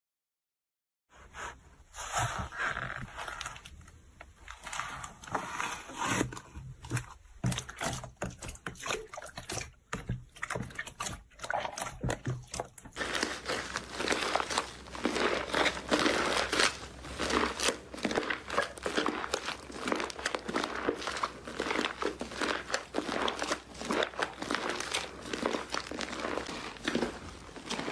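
Slime being squished, poked and stretched by hand, a dense run of wet clicks and crackles that starts after a second of silence and grows denser and louder about halfway through.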